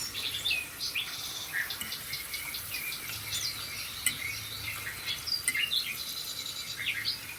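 Small birds chirping and twittering continuously, many short quick notes overlapping.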